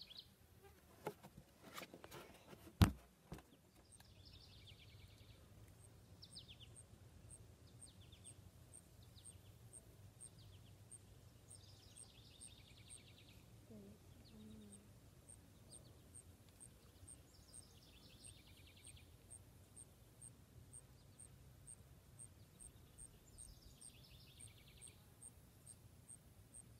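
A songbird singing short high phrases every few seconds over a low outdoor rumble, with a faint high ticking about twice a second. In the first few seconds come a handful of knocks, the loudest a single sharp knock about three seconds in.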